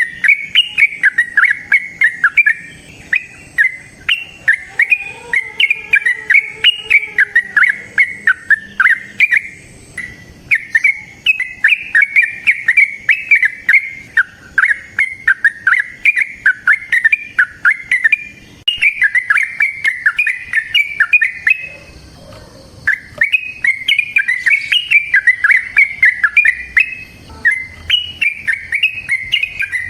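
Yellow-vented bulbul (trucukan) singing a long run of rapid, bubbly warbling phrases, one after another, with only a few brief pauses.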